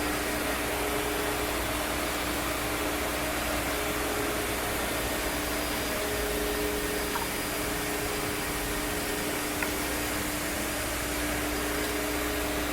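Car wash equipment running: a steady rushing noise with a low, even hum under it, with no let-up.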